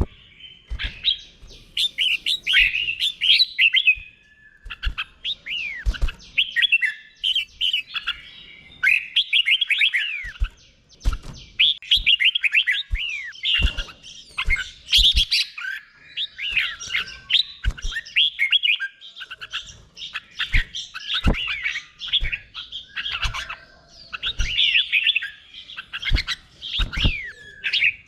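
Red-whiskered bulbul singing, a run of quick chirpy phrases that glide up and down, broken by short pauses. Occasional low thumps sound alongside the song.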